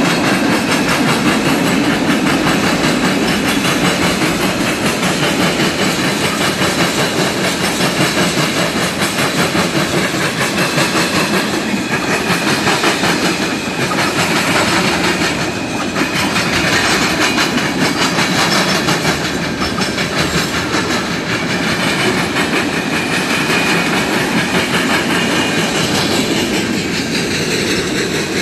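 Freight train of tank cars rolling past: a steady rumble of steel wheels on rail, with a rapid clickety-clack as the wheels cross rail joints.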